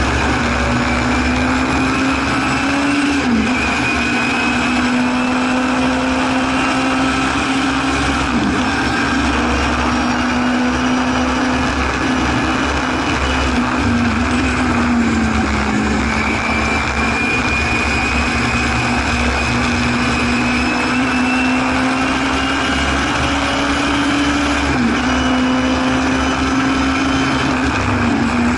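A Singer Chamois race car's rear-mounted four-cylinder engine, heard from inside the cabin, running hard at high revs. Its pitch climbs slowly and drops sharply at each gear change, four times, over a steady rush of road and wind noise.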